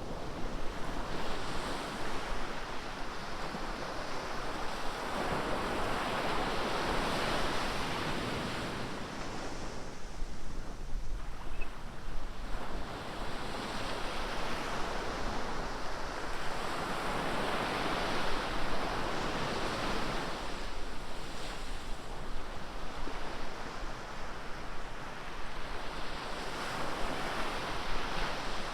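Ocean surf breaking on a beach, the wash swelling and ebbing every four to six seconds.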